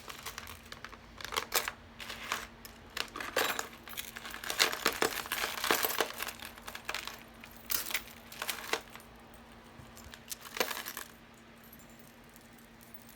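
Costume jewelry being handled: necklace beads and chain clicking and clattering together in quick bursts. Near the end the clatter stops.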